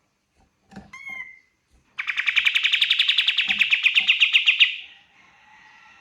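Kapas tembak singing: a couple of short rising chirps about a second in, then a loud, rapid trill of evenly repeated notes lasting about two and a half seconds, which fades into a faint tail.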